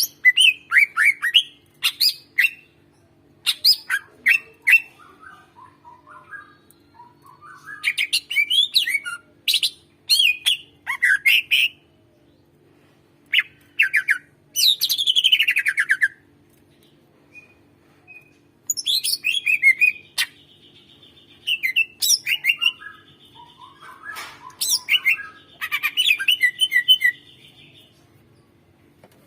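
Green leafbird (cucak ijo) singing in loud, varied bursts of sharp chirps and rapid trills separated by short pauses, with a long falling slur about halfway and a steady high trill held twice near the end.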